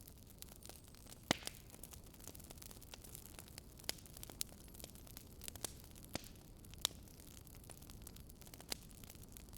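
Wood fire crackling: irregular sharp pops over a steady low hiss, the loudest pops about a second in and near seven seconds.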